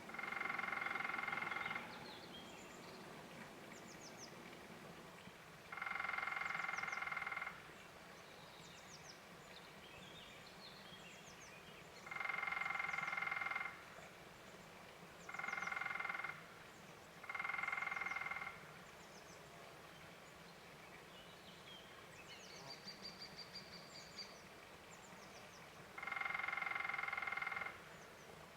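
Woodpecker drumming: six rolls of one to two seconds each, several seconds apart, with short high chirps of other birds between them.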